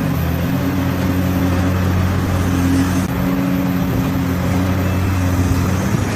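An engine running steadily at an even speed, a low drone without revving.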